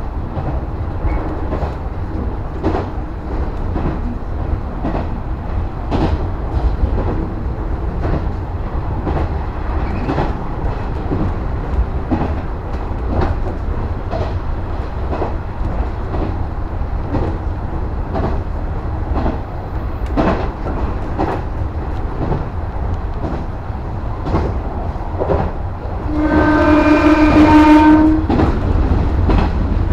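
JR West 115 series electric train running, heard from inside its cab: a steady low running noise with the wheels clicking over rail joints. Near the end the train's horn sounds for about two seconds, the loudest sound here.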